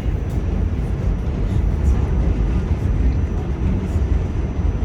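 R46 subway train running along the track, a steady low rumble with a faint high steady tone above it.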